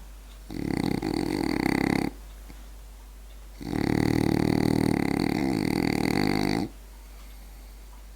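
French bulldog snoring: a snore of about a second and a half, a pause, then a longer snore of about three seconds.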